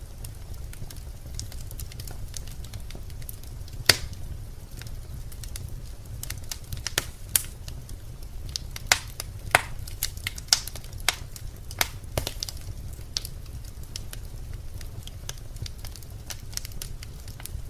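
Birch logs burning in a fireplace: a low, steady rumble of flame under irregular sharp crackles and pops, with one loud pop about four seconds in and a busier run of pops in the middle.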